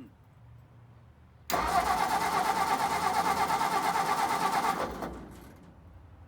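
Frandee Sno Shu Model E snowcat engine cranking over for about three seconds, starting abruptly and stopping, without catching: a cold, choked engine failing to fire, which the owner takes as lacking fuel from its manual fuel pump.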